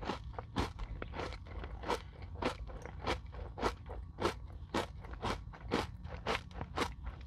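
Close-up chewing of a crunchy Nature Valley granola bar coated in yogurt and whipped cream: a steady run of crisp crunches, a bit less than two a second.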